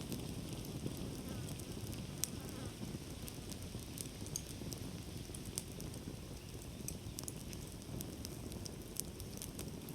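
Wood campfire crackling: a steady low rumble of burning with many small irregular crackles and snaps, and a few louder pops, about two, five and a half and nine seconds in.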